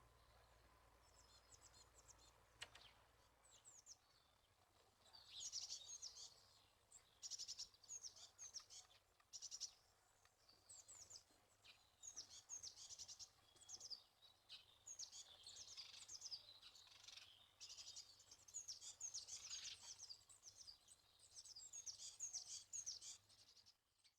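Songbirds singing faintly: quick, high twittering phrases that start about five seconds in and repeat every second or two.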